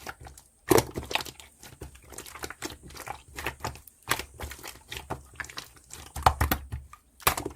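Irregular close rustling and crinkling, broken by many sharp clicks.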